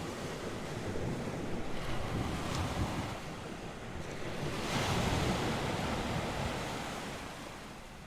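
North Sea surf: waves breaking and washing up the shore, with wind buffeting the microphone. One wave surges loudest about halfway through, then eases off.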